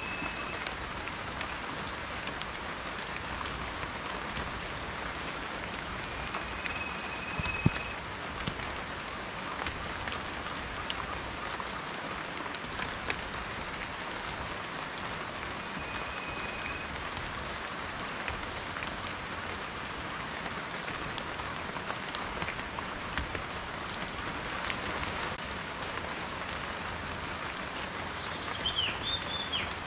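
Steady rain falling on a surface, an even hiss with scattered drops ticking, one sharper drop about eight seconds in. A few faint short high whistles come through, and a brief chirp near the end.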